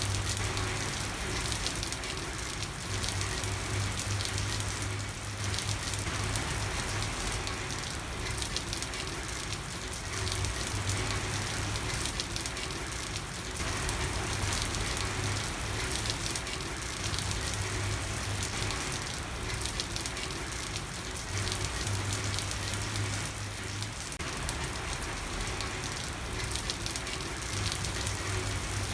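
Steady rain falling on a street: a dense, even patter of drops. A low hum comes and goes every few seconds underneath.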